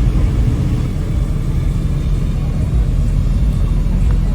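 A car engine and exhaust rumbling steadily at low revs.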